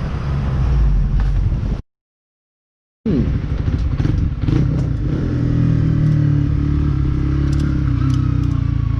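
Motorcycle engine running while riding, with a few light clicks. The sound cuts out about two seconds in for roughly a second, then comes back with a short drop in pitch before settling into a steady run.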